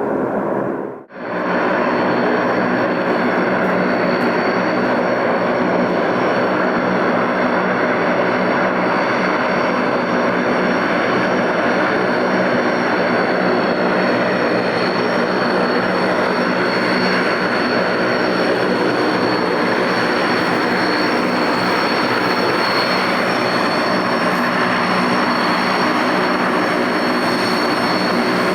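Il-18's four Ivchenko AI-20 turboprop engines running steadily, with a high whine over the propeller and engine noise. The sound cuts out briefly about a second in, then resumes unchanged.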